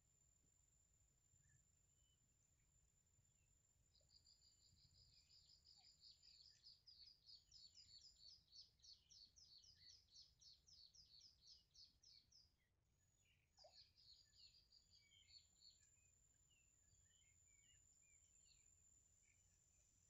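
Faint bird chirping in two runs of quick, evenly repeated high notes, about four a second, the first lasting several seconds and the second shorter, near the middle. A steady thin high whine runs underneath.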